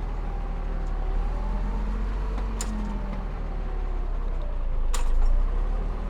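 Heavy diesel earthmoving machinery running steadily, its pitch drifting slightly, with two sharp knocks about two and a half and five seconds in.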